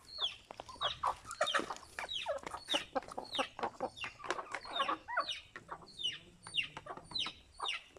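A flock of chickens calling continuously: many short, steeply falling calls overlapping, several a second.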